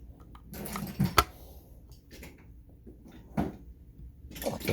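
Scattered clicks and knocks of hand tools being handled on a workbench, as a Phillips screwdriver is picked up and used on screws. The sharpest click comes a little over a second in.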